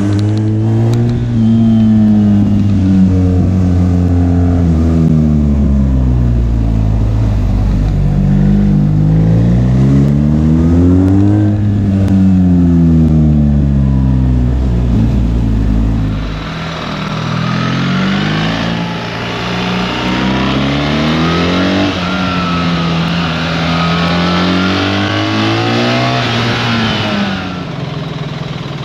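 BMW R 1300 GS boxer-twin engine under way, its revs climbing and falling several times. About halfway through, a steady hiss joins.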